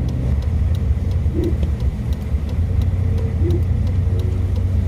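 1970 Chevrolet dump truck's engine running under load as it climbs a hill, heard from inside the cab: a steady low rumble with faint regular ticking above it.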